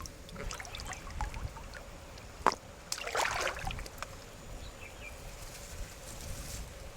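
River water splashing and trickling, with small drips and clicks, a sharp knock about two and a half seconds in and a short splash just after.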